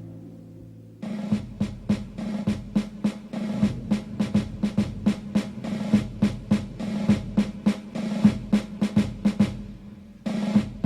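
Background music: a low held note fades, then about a second in a snare drum starts beating a quick rhythm of about four strikes a second over a steady low note, breaking off briefly near the end.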